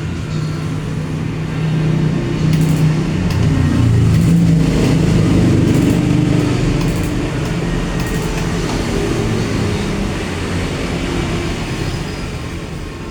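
A low engine rumble that swells over a few seconds and then slowly fades.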